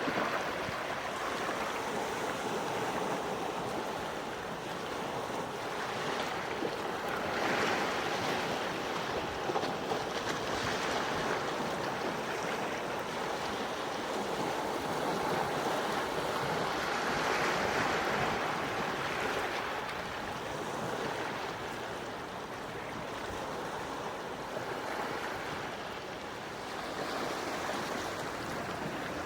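Gentle waves washing onto a shore, a steady wash that swells and eases every few seconds.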